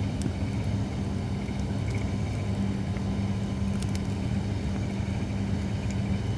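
Holly firewood burning, giving off a few sharp crackles and pops, over a steady low hum.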